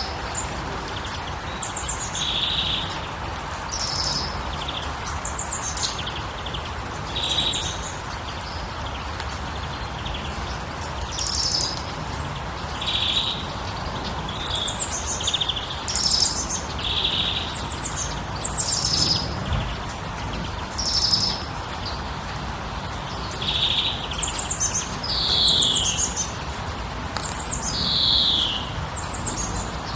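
Songbirds chirping and calling repeatedly, with short notes and a few falling whistled slurs near the end, over a steady rushing background noise.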